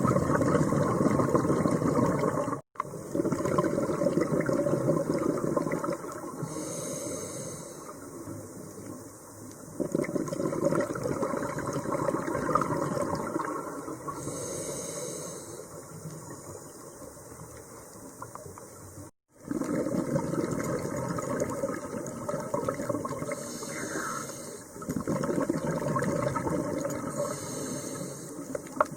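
Scuba diver breathing through a regulator underwater: long rushes of exhaled bubbles alternating with short, high hisses of inhaled air, about four breaths, each cycle some seven or eight seconds.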